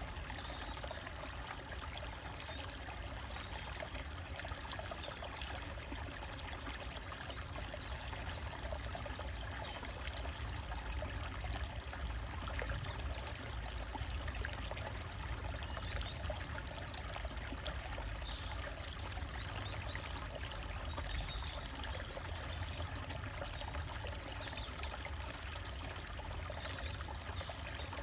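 Small stream trickling and splashing over rocks in a steady wash, with faint bird chirps now and then.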